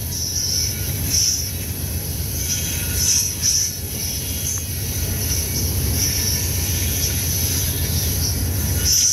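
A CP freight train's cars roll past with a steady low rumble. High-pitched wheel squeal comes and goes every second or so, typical of wheel flanges squealing on the curve.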